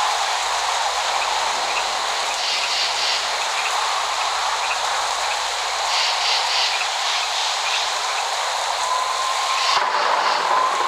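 Steady heavy rainfall, an even hiss with no thunder. About nine seconds in, a faint drawn-out whistling tone rises in over the rain.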